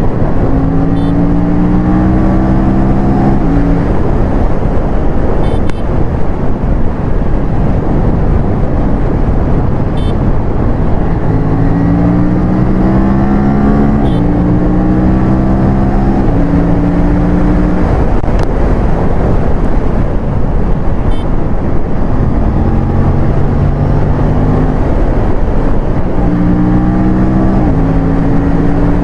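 Aprilia RS457's parallel-twin engine accelerating through the gears four times, its pitch climbing and dropping in quick steps at each upshift. Heavy wind rush on the microphone fills the gaps between the pulls.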